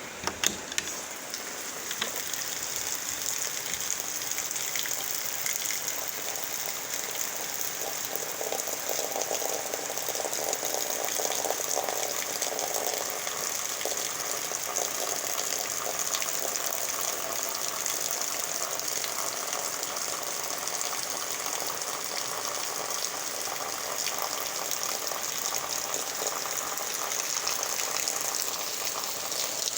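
Steady rushing of water from heavy rain and floodwater. There are a few sharp knocks in the first second.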